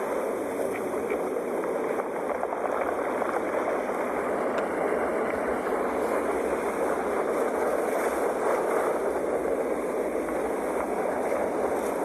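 Sea waves: a steady, even wash of surf noise with no single wave standing out above the rest.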